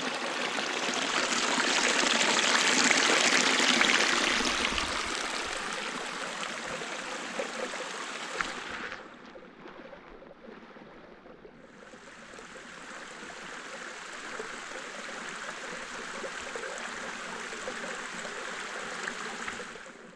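Small mountain spring stream running, a steady rush of water that swells over the first few seconds, turns duller and quieter about nine seconds in, and comes back full about three seconds later.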